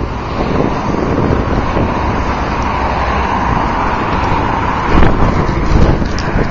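Road traffic noise in a snow blizzard: a steady rush of car engines and tyres, with wind buffeting the microphone, growing louder about five seconds in.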